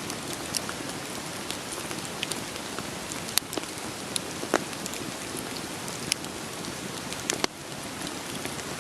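Steady rain falling, with a wood fire crackling over it: a scatter of sharp pops and snaps from the burning logs, a few louder ones past the middle.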